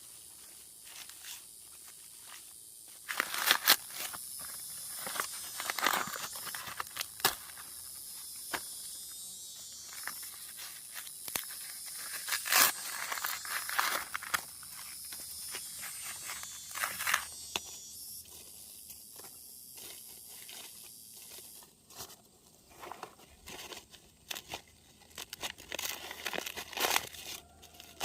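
Dry plant leaves or husks being torn and crumpled by hand: irregular crackling tears and crunches, sparser near the end.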